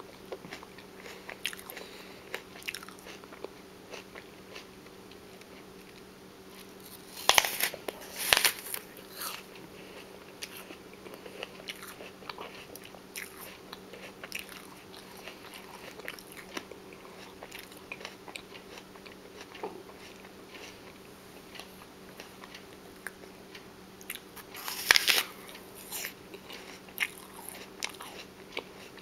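Close-miked eating of crisp raw food: two loud crunchy bites, one about a quarter of the way in and one near the end, with soft, wet chewing crunches and clicks in between.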